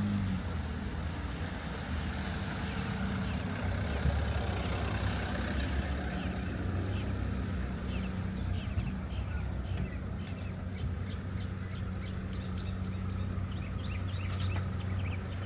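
A motor vehicle engine running with a steady low hum, with light street sounds over it.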